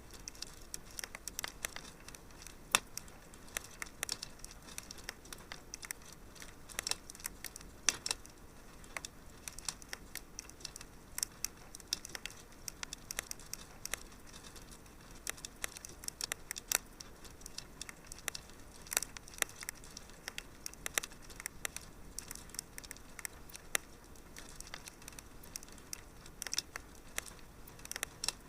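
Fireplace fire crackling: irregular sharp pops and snaps, several a second, over a faint steady hiss, with a few louder pops standing out.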